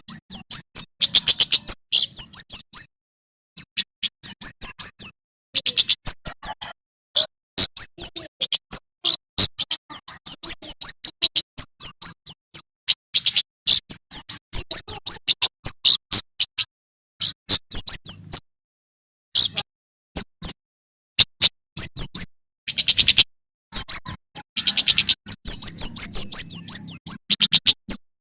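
Male prenjak keres (kemade jawa), a small songbird, singing loudly in rapid runs of high, sharp chirps, each run a second or two long with short pauses between.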